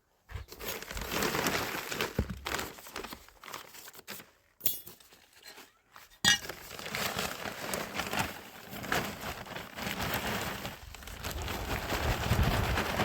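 Gritty crunching and scraping with small clinks from hand tools at work, in several short stretches that cut off abruptly.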